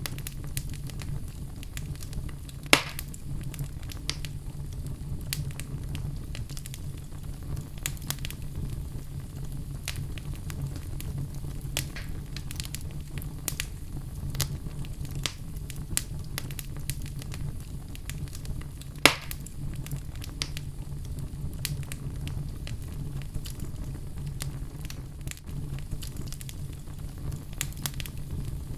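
Fire in a fireplace crackling, with frequent small snaps and two louder pops, one a few seconds in and one about two-thirds of the way through, over a steady low rumble.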